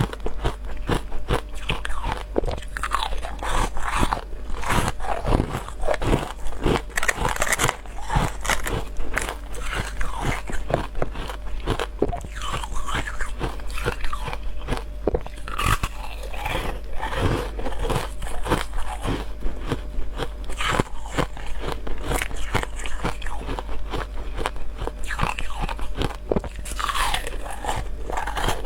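A person biting and chewing ice cubes: continuous, irregular crunching and cracking as the ice breaks between the teeth.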